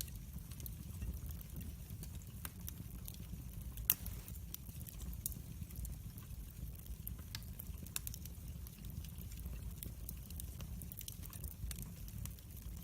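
Wood fire in a fireplace crackling: scattered sharp snaps and pops over a low steady rumble, with one louder pop about four seconds in.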